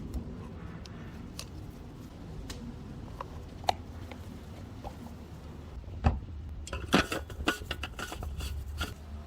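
Hand work on tools or parts: scattered single clicks and light knocks over a low steady hum, then a busy run of rapid clicks and clatter from about six seconds in.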